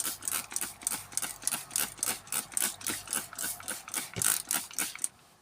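Hand trigger spray bottle pumped quickly and repeatedly, about five squirts a second, misting water onto tarantula substrate to dampen it. The squirting stops about five seconds in.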